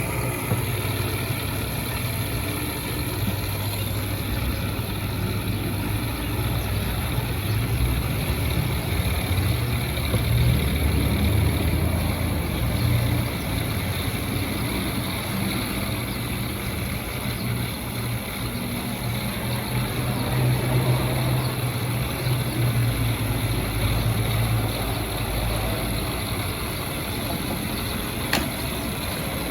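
A steady low motor hum with a noisy background, and a single sharp click near the end.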